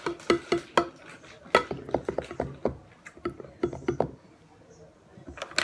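Eating utensil clicking and scraping on a plate of chicken and rice, an irregular run of quick light clicks with a short lull near the end.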